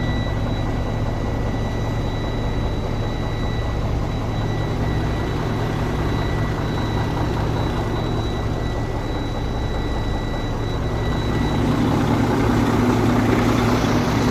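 Semi truck's diesel engine idling steadily, growing a little louder about three-quarters of the way through. A faint steady high-pitched tone runs alongside.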